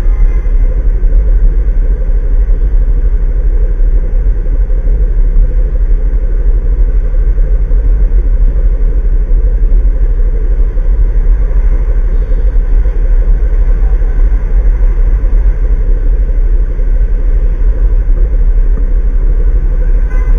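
Loud, steady low rumble of a road vehicle on the move, unchanging.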